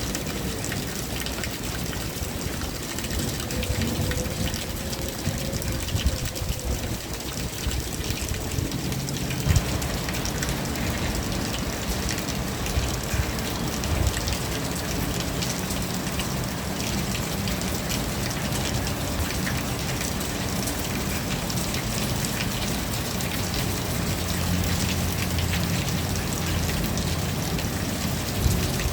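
Steady rain falling, an even dense patter of drops. A faint wavering tone sounds in the first few seconds, and a low rumble sits underneath from about a third of the way in.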